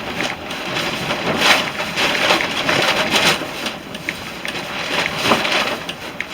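Repeated breathy whooshes of air blown into a smouldering tinder bundle of twigs and dry grass, with the dry material crackling and rustling, as the ember is coaxed toward a flame.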